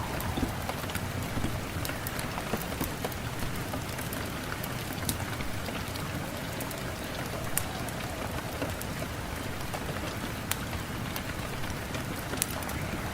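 Steady rain with individual drops pattering sharply and irregularly on a surface.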